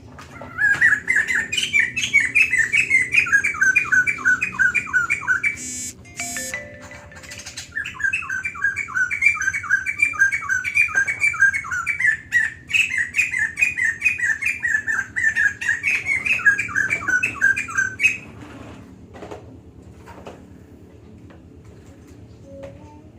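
White-crested laughingthrush singing in long runs of rapid, repeated chattering notes, two bouts broken by a short pause about six seconds in, then falling quiet for the last few seconds.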